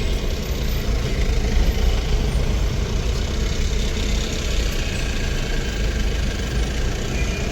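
Road traffic: motor vehicle engines running and idling, a steady low rumble.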